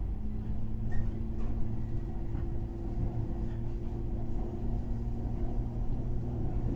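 Interior running noise of a JR West 103-series electric motor car, with its MT55 DC traction motors: a steady low rumble with a faint, level motor and gear hum at constant speed. A few faint ticks come from the wheels over the track.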